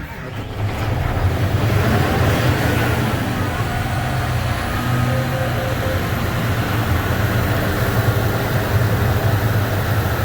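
Tractor diesel engine catching on a cold start with its block heater not plugged in, running up about half a second in and then idling steadily as it warms.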